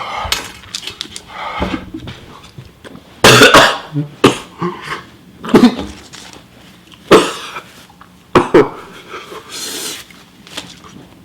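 A man coughing in a fit of short, harsh coughs, the loudest starting about three seconds in, with breathing between, as his throat reacts to extremely spicy ramen.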